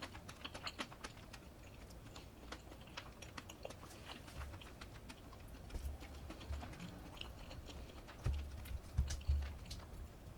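Close-miked chewing of crunchy brown-rice-crusted baked chicken: a run of quick, crisp little crunches and crackles. Near the end come a few heavier low thumps, the loudest sounds.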